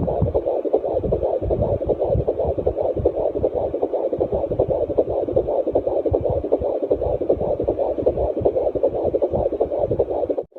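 Fetal heartbeat heard through a Jumper JPD-100S6+ pocket fetal doppler's built-in speaker: a rapid, pulsing whoosh over a steady hiss, cutting off suddenly near the end.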